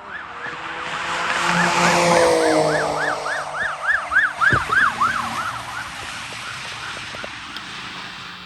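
Police car siren in fast yelp mode, a rising-and-falling wail about three times a second, on a vehicle driving past: loudest about two seconds in, dropping in pitch as it goes by, then fading.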